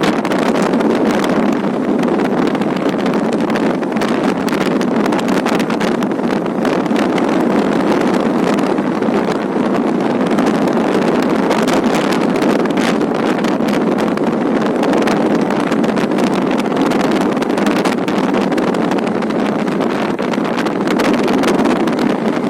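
Wind buffeting the microphone of a camera on a moving bike: a loud, steady rush with constant flutter.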